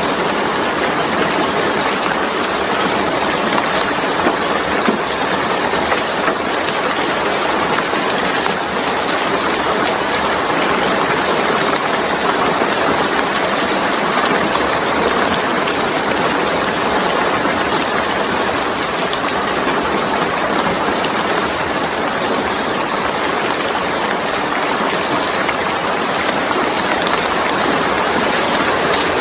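Steady, heavy rainfall: a dense, even hiss of rain with no pauses or separate drops standing out.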